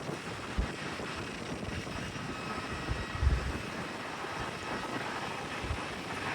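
Jet airliner engine noise: a steady rush with a faint high whine. Wind buffets the microphone with short low thumps a few times.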